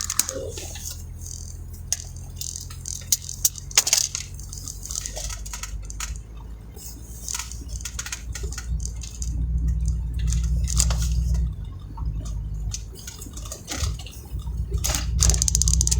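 A vehicle's engine running, heard from inside the cabin: a steady low hum that grows louder for a couple of seconds about nine seconds in, with scattered sharp taps and clicks throughout.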